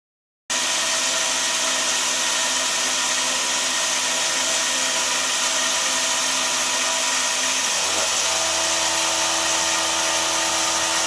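CNC-converted mini mill running its spindle with the end mill cutting an aluminum soft jaw: a loud, steady machining noise with a whine of several steady tones. It starts suddenly about half a second in, its tones shift about 8 seconds in as the cut changes, and it cuts off abruptly near the end.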